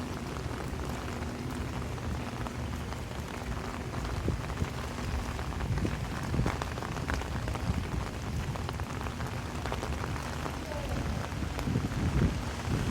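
Heavy rain falling, with drops pattering steadily on an umbrella held overhead.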